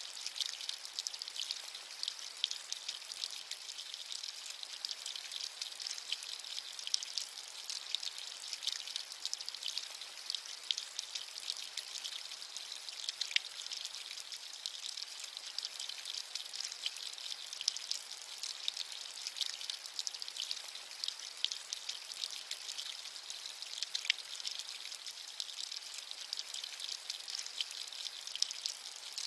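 Steady rain, a continuous high hiss dotted with many small drop ticks.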